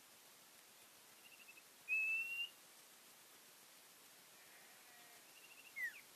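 Common iora (cipoh) singing: a quick run of soft notes, then a loud, slightly rising whistle about two seconds in, and near the end another quick run of notes and a short falling whistle.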